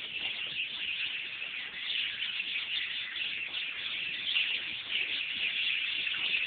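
A dense chorus of many birds chirping and twittering at once, a steady, busy mix of short high calls.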